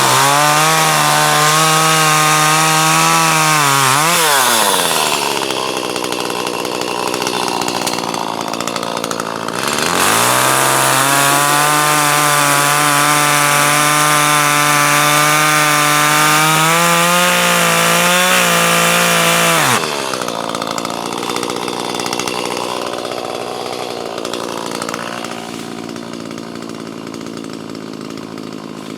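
Chainsaw running at full throttle while cutting through a log, let off about 4 seconds in and run more roughly for several seconds, then revved up again about 10 seconds in for a second long cut. Its pitch rises slightly near the end of that cut, and about 20 seconds in the throttle drops and the saw runs on more quietly.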